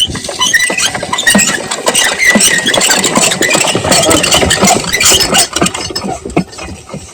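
Diesel engine of an irrigation water pumpset running with a loud, busy clatter, fading somewhat near the end.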